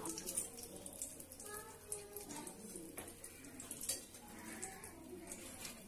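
Stuffed bitter gourd frying faintly in a pan, a soft sizzle with a few light clicks.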